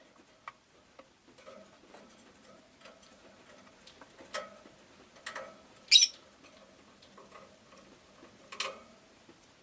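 Rosy-faced lovebird giving a few short, sharp chirps, the loudest about six seconds in, over soft chatter and scattered light ticks.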